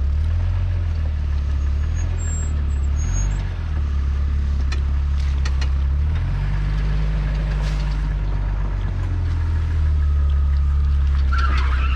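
Off-road vehicle engine running at low revs, a steady low drone whose pitch shifts a couple of times, with a few faint clicks.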